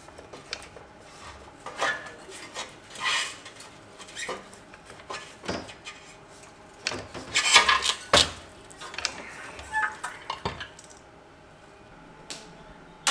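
Metal tools and parts clinking and clattering as they are handled, in a string of separate knocks with the loudest cluster past the middle, then quieting down.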